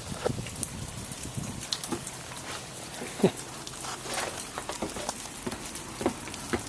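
Sleet pellets ticking and pattering irregularly on surfaces, with one sharper, louder tick about three seconds in.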